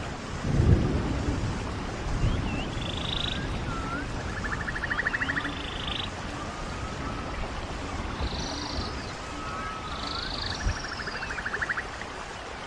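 Running stream water hissing steadily, with birds calling over it: short rising chirps and a buzzy trill that comes twice. A brief low rumble swells about a second in.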